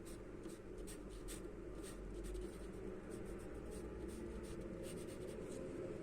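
Charcoal pencil scratching on paper in many quick, irregular short strokes, over a steady low hum.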